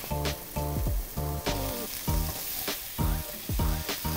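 Canned tuna and chili-onion paste sizzling in oil in a frying pan, stirred with a wooden spatula. Background music with a steady beat, about two beats a second, plays over it.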